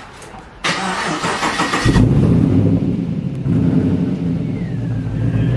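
HSV VE Clubsport V8 cranked on the starter for about a second, catching and revving up, then running on with a second blip of the throttle. The car is started on its freshly fitted battery to check it.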